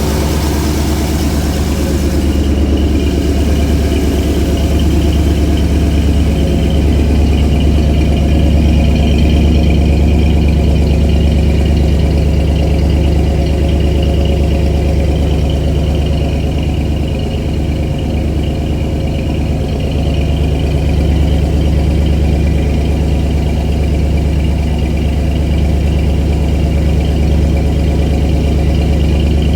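1977 Mustang Cobra II's 351 Windsor V8 idling steadily while it warms up.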